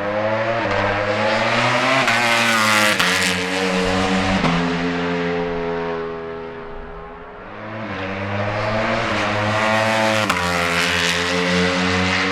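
Ducati Panigale V4 superbikes' V4 engines revving hard and upshifting on track, each rise in pitch cut off by a sudden drop at the gear change. The sound is loudest around three seconds in, fades around seven seconds, and swells again about ten seconds in as another pass comes through.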